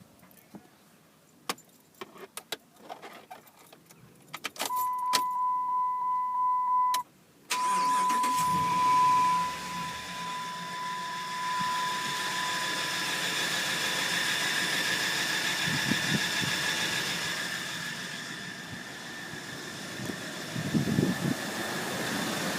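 Keys jingling and clicking, then a steady warning chime, then the 2006 Dodge Ram 1500's 5.7 Hemi V8 cranks and starts about a third of the way in and settles to an idle. Over the idle runs a constant high-pitched whine that is still there with the drive belt removed and is loudest at the first exhaust joint under the truck; its cause is unknown.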